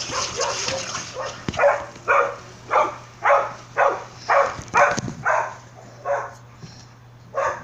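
A dog barking repeatedly, about nine barks at roughly two a second.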